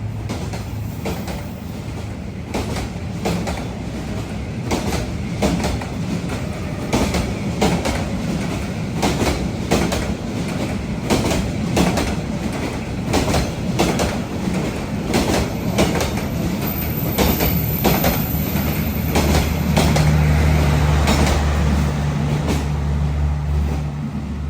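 Train rolling past on the track, its wheels clacking over the rail joints in a long uneven run of sharp clicks. A low steady hum comes in about twenty seconds in.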